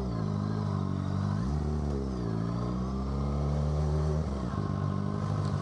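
Suzuki GSX-R600 inline-four motorcycle engine with an M4 aftermarket exhaust, running under way. The note rises about a second and a half in, eases back down, then holds steady until it drops off a little after four seconds.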